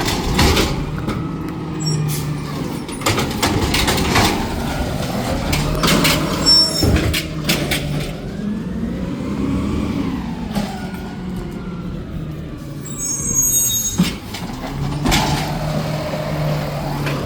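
Garbage truck at work: its engine hum swells several times, with repeated clanks and bangs of metal and brief high squeals.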